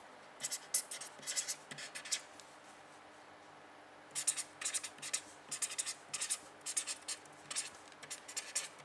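Handwriting: runs of short, scratchy strokes, a pause of about two seconds, then more strokes.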